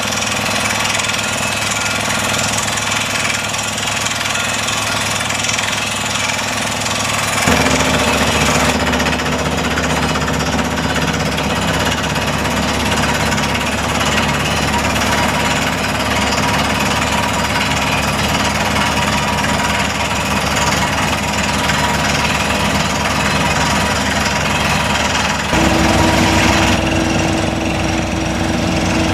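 Water-well drilling rig running, its air hammer pounding rapidly and steadily as it bores down through dry shale, with the rig's engine under it. The sound changes abruptly about seven seconds in and again near the end.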